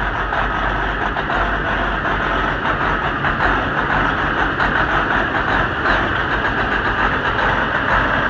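Tour bus engine idling unattended with an uneven, ragged rumble: it is misfiring.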